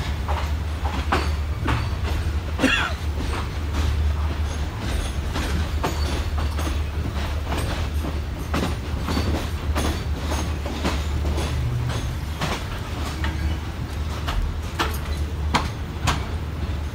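Passenger train rolling slowly out of the station, heard from on board: a steady low rumble with irregular clacks as the wheels run over rail joints and points, and a brief high wheel squeal about three seconds in.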